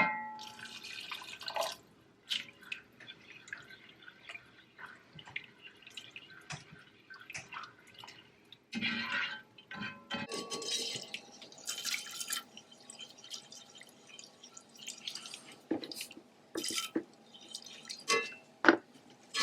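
Cooking in a pan: liquid being poured and stirred, with a sharp knock right at the start and scattered clicks and clinks of a utensil through it.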